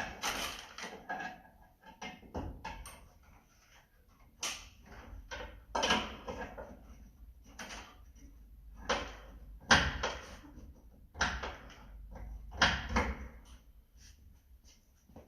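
Irregular knocks and clatter from hands-on work on the car, about a dozen separate hits of varying loudness, the sharpest near the middle and again toward the end.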